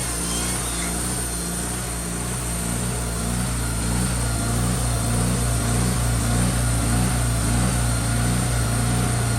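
An engine running steadily, getting a little louder after about four seconds.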